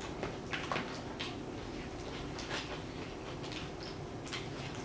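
People eating tacos: quiet chewing with many small, scattered mouth clicks and lip smacks over a faint steady hum.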